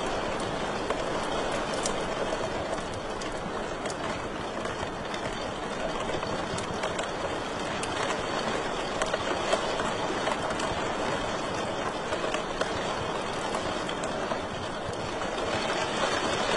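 Wood fire in a fireplace crackling over a steady soft hiss, with scattered sharper pops.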